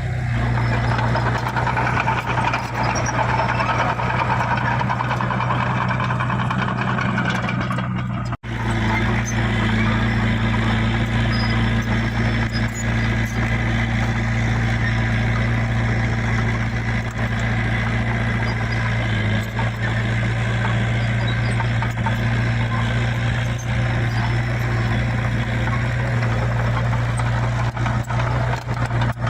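Heavy diesel engine of a bulldozer or dump truck running steadily at a constant speed, with a brief break about eight seconds in.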